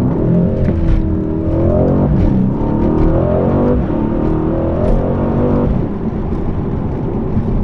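Mercedes-AMG 4.0-litre twin-turbo V8 accelerating hard with its exhaust flaps open, heard from inside the cabin. The revs climb and drop back at each of several quick upshifts, then it lifts off near the end with some exhaust crackles.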